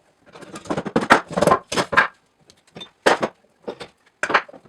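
A run of knocks and clatter of wood and tools being handled on a workbench: a dense cluster in the first two seconds, then single sharp knocks about three seconds and four seconds in.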